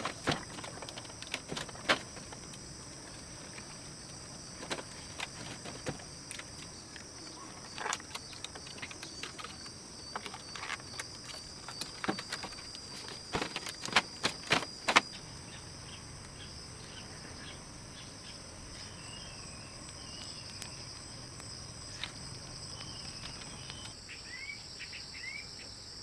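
Insects trilling in a steady high-pitched chorus. Scattered clicks and knocks come through the first half, and a few short bird chirps sound near the end.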